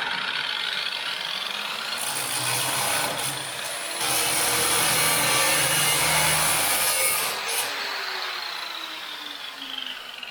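Angle grinder running and grinding on steel, the harsh grinding heaviest through the middle seconds; the motor's whine then winds down in pitch near the end as it spins down.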